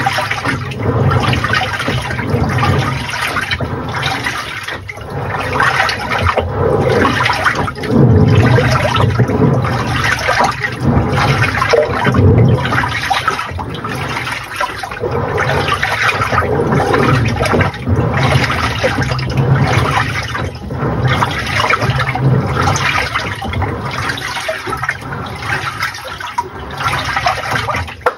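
Water churning and sloshing inside the tub of a Panasonic NA-FA80H8 top-loading washing machine as it runs through its wash cycle, surging roughly once a second. The sound drops away suddenly at the very end.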